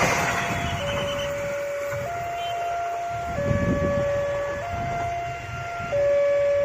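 Two-tone hi-lo siren, a steady note switching between a higher and a lower pitch about every second and a quarter, over a low rumble of a running train.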